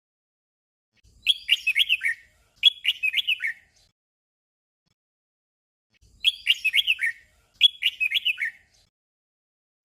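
Red-whiskered bulbul singing its short 'doubled' song: a quick warbled phrase sung and at once repeated, twice over, with a silent gap of about two seconds between the two pairs.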